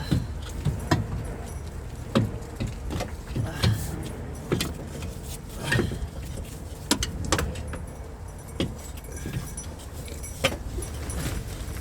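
Irregular metallic clinks and knocks of hand tools and fittings against the steering rack as it is worked into place, over a steady low hum.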